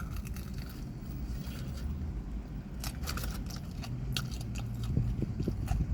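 A person chewing food close to the microphone, with scattered soft crunches and wet mouth clicks at irregular moments.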